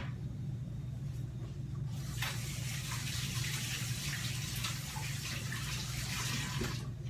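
Kitchen tap running into the sink, starting about two seconds in and stopping near the end, over a steady low hum.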